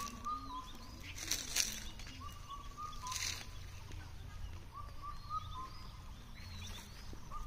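Birds calling outdoors, short chirping phrases repeating every couple of seconds, with two brief rustles about one and a half and three seconds in.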